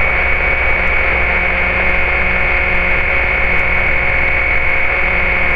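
Steady drone of a Cessna 150's engine and propeller heard inside the cabin in flight: an even noise with a few constant tones over a low hum, unchanging throughout.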